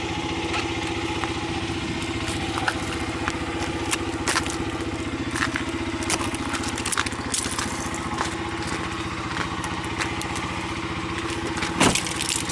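A vehicle engine idling steadily, with scattered sharp ticks and crackles over it and one thump near the end.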